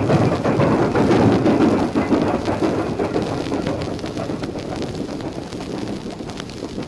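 Recorded steam train sounds played through a large stereo: a dense rumbling, hissing noise that slowly fades away.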